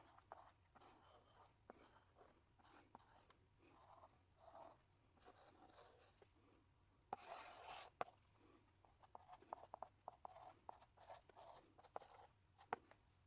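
Chalk in a chalk holder writing on a blackboard: faint scratching strokes and taps, with one longer, louder scrape about seven seconds in and sharp clicks of the chalk striking the board, twice.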